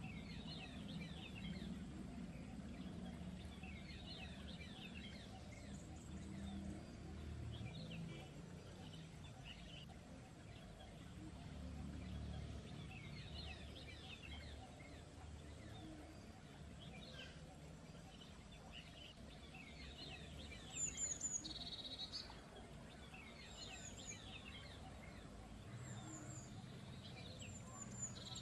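Several small birds chirping, with many quick chirps throughout and a few clearer, higher notes in the second half, over a faint low rumble of background noise.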